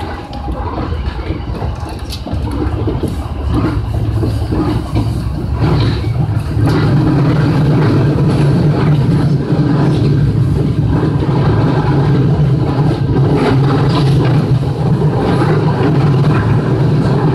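Electric commuter train running, heard from the driver's cab: a steady low hum that grows louder over the first six seconds or so and then holds, with a few sharp clicks from the wheels on the rails.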